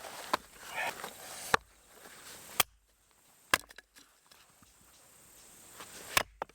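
Firewood being split: a handful of sharp, separate chopping strikes on wood, unevenly spaced, with the last one near the end.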